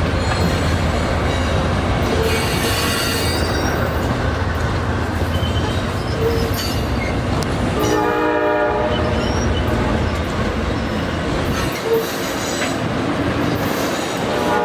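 Amtrak passenger train running past at close range, a steady loud noise of cars and wheels on the track, with a horn blast lasting about a second just past the middle. The low end of the noise drops away about three-quarters of the way through.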